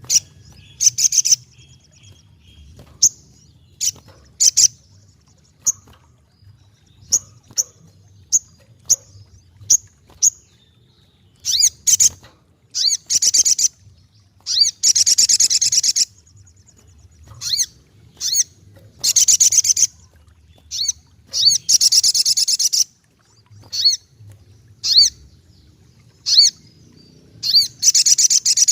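A sogok ontong sunbird singing in a loud, high-pitched chattering song: sharp single chirps and short call notes broken up by fast trilling bursts lasting a second or two, repeated again and again.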